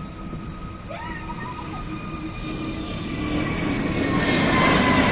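Jet airliner's engines, a steady high whine over a rushing noise that grows steadily louder as the aircraft draws near.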